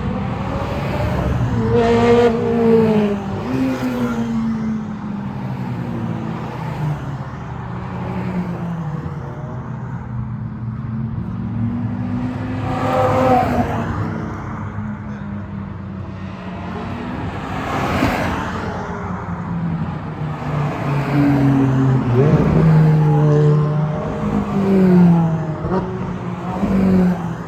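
Ferrari sports cars driving past one after another, their engine notes rising as they rev and falling as each goes by. Several passes are louder than the rest.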